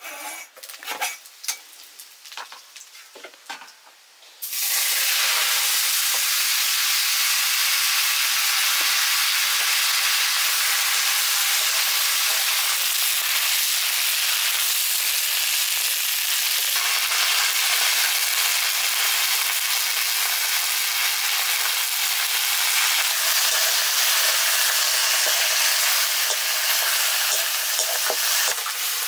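Food frying in hot oil in a cooking pot, a loud steady sizzle that starts suddenly about four seconds in. Before it come a few light clicks and knocks of utensils.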